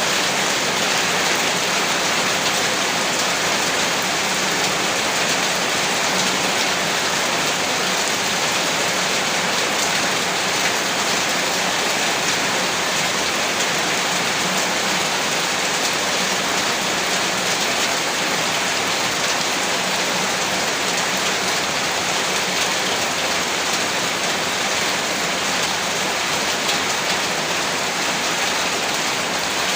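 Heavy rain falling steadily, a dense even hiss of rain on surfaces with no breaks or single loud events.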